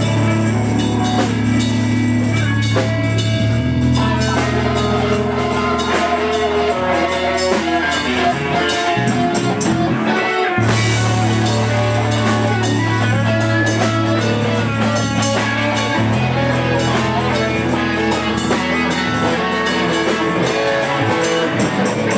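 Live rock band playing an instrumental passage with guitar and drums, loud and continuous. The low end drops out briefly about ten seconds in, then the full band comes back in.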